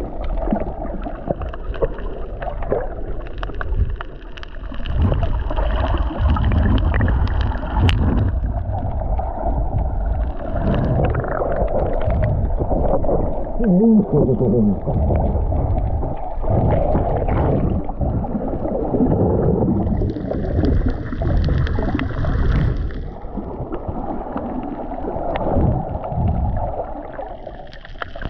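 Muffled sloshing and gurgling of seawater around a camera taken underwater while snorkelling, irregular and loud throughout.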